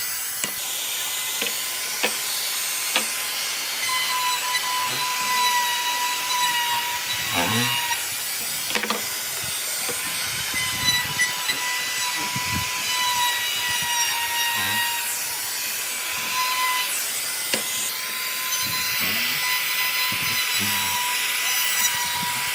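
An electric power tool cutting wood, with a steady high whine and a rasping hiss of the cut, broken by occasional short knocks.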